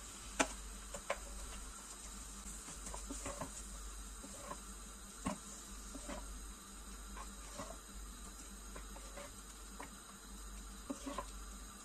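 Chicken pieces and chopped onion frying in oil and butter in a pot: a faint steady sizzle with scattered light clicks as a wooden spoon stirs them.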